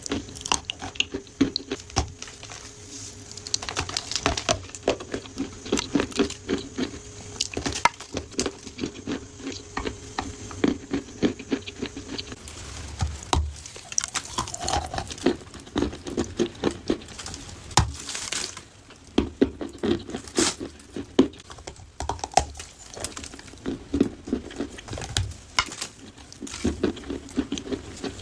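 Pieces of baked clay being bitten and chewed, a dense irregular run of sharp crunches and crackles.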